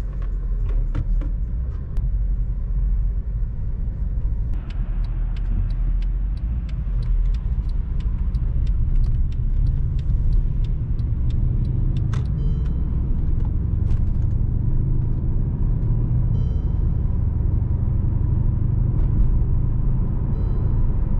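Cabin sound of a 2016 Mercedes-AMG E63 S on the move: its 5.5-litre twin-turbo V8 and the road make a steady low rumble, a little louder after about five seconds.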